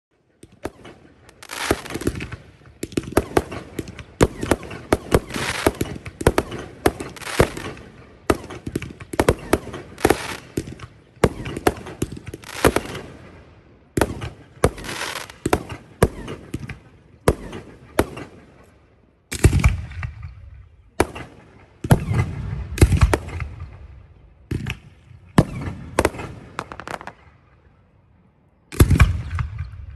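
Fireworks display: a rapid, dense run of aerial shell bursts and crackles, coming in volleys with short lulls between them. From about twenty seconds in, deeper, heavier booms join the bangs.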